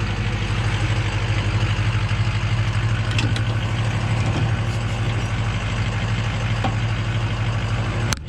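Truck engine idling steadily with an even low hum. A sharp click comes just before the end.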